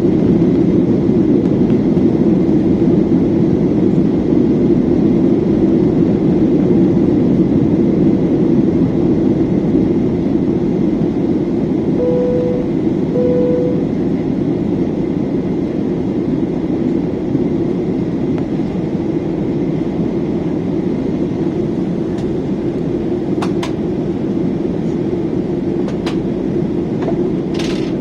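Airliner cabin drone of jet engines and rushing air, steady and low, easing slightly about a third of the way in. Two short identical tones sound about twelve seconds in, and a few sharp clicks come near the end.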